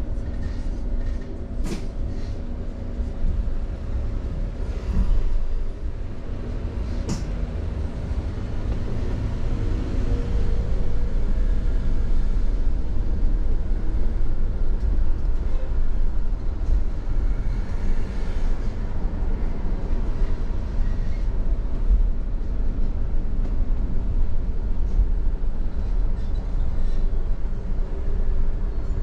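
Steady low rumble of a moving vehicle, with a few sharp clicks in the first several seconds.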